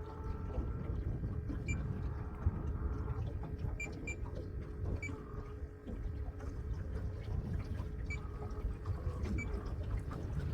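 Wind buffeting the microphone on an open boat with a low rumble, over a faint steady hum and a few small ticks.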